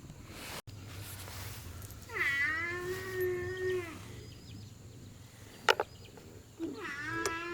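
An animal calling: one long drawn-out call lasting nearly two seconds, then a second one starting near the end, with a few sharp clicks in between.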